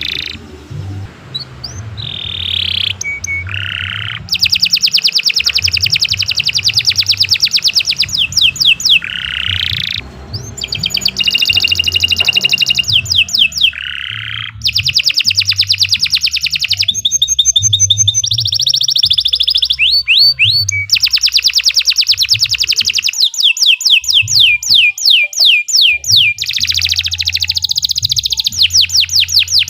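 A domestic canary singing long, continuous song: rapid trills of evenly repeated sweeping notes, each run held for several seconds, broken by short pauses and quick changes of phrase.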